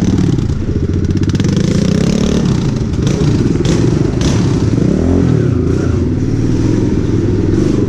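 Small pit bike engine running under throttle, its pitch rising and falling a little, with a few sharp clatters in the middle.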